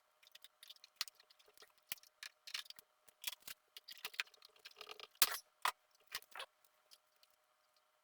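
Irregular small clicks, snips and brief rustles as hands work on thin wires, cutting and preparing a cut cable to be rejoined.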